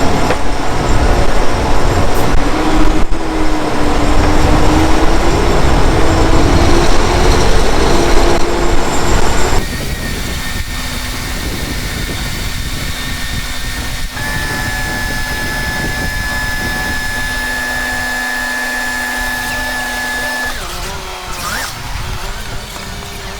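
Machinery running: a loud motor with a wavering hum for about ten seconds. It then cuts abruptly to a quieter, steady machine hum with a thin high whine that stops near the end.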